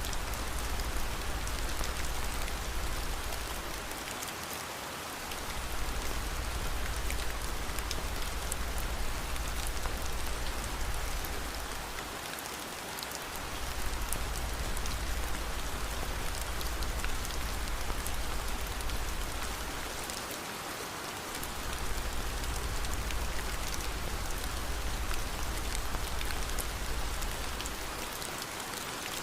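Steady heavy rain falling, an even hiss with scattered fine drop ticks. Under it runs a low rumble that dips out briefly about every eight seconds.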